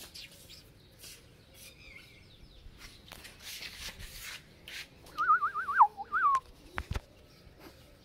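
A bird sings a short, quick warbling phrase about five seconds in, a thin wavering whistle lasting about a second. Before it there is soft rustling, and a single knock follows shortly after.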